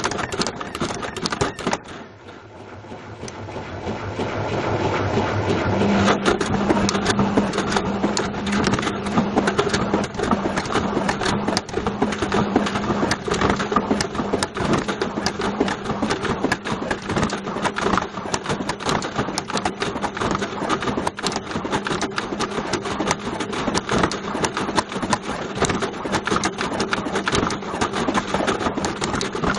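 A Bush VCR807 video recorder tumbling inside a Beko washing machine drum, clattering and knocking against the drum without let-up. About two seconds in, the racket drops briefly, then builds back up as the drum gets going again, with a steady motor hum underneath.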